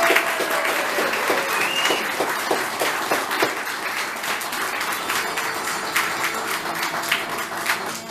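A roomful of diners applauding and cheering steadily at the end of the Address to a Haggis, with dense overlapping claps and a few voices calling out.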